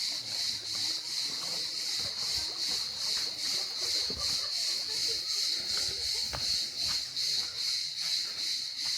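A chorus of insects shrilling high and steadily, pulsing about three to four times a second, with a few faint knocks underneath.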